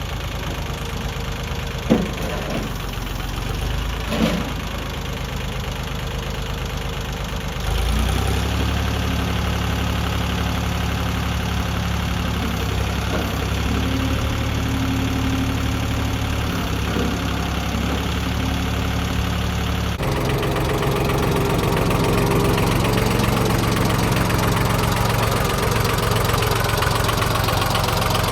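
Yanmar 26 hp diesel compact tractor engine running. Two short knocks come about 2 and 4 seconds in, and the engine gets louder and fuller about 8 seconds in, as if brought up in speed.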